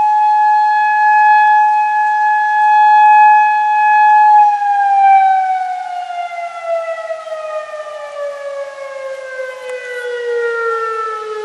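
Outdoor tornado warning siren holding one steady high tone. About four seconds in, the pitch starts to fall slowly and the sound grows quieter as the siren winds down.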